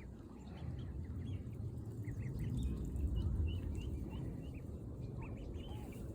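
Birds chirping in many short, high chirps scattered over a steady low rumble.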